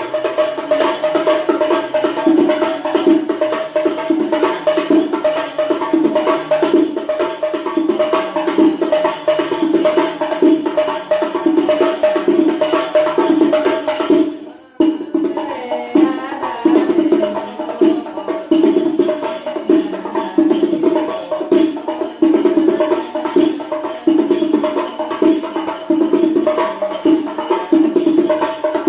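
Size-33 terbang (rebana frame drum) played with fast, continuous hand strokes, the drumhead ringing at a steady pitch. The playing breaks off for a moment about halfway through, then picks up again.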